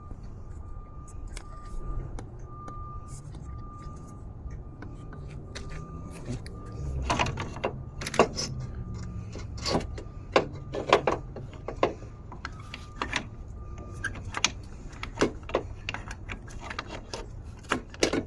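Metal tools and parts clinking and knocking while an engine mount is refitted: scattered sharp clicks, denser in the second half, over a low steady rumble.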